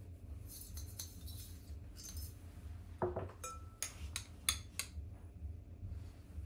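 Kitchen dishes and utensils clinking: a knock with a short ring about three seconds in, followed by several quick sharp clinks, over a low steady hum.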